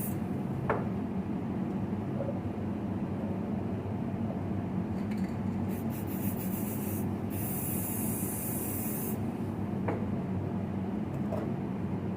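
Spray can hissing in intermittent bursts, coating alternator parts with paint or varnish, over a steady low workshop hum.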